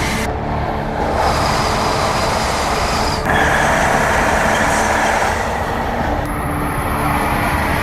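Steady running noise of a high-speed train, changing abruptly several times as separate clips are spliced together.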